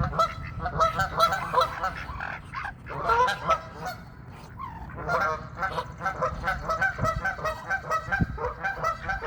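A flock of pond waterfowl calling over and over in quick, overlapping calls, with a brief lull about four seconds in. The birds are agitated, clamouring for feed that has run out.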